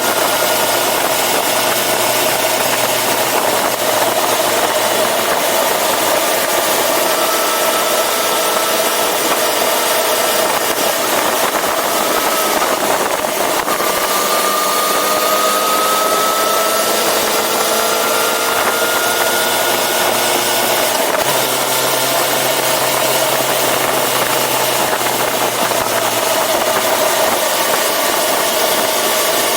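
Yamaha FZ6R sportbike's inline-four engine running under way, with a steady rush of wind noise. The engine pitch drifts slowly, rising gently midway.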